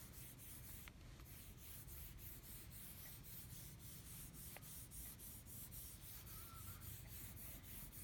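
Near silence: room tone with a low hiss, broken by a few faint, brief ticks.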